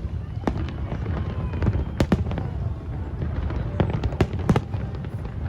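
Fireworks going off: several sharp bangs at irregular intervals, the loudest about two seconds in and two close together past the four-second mark, over a steady low rumble of crowd and bursts.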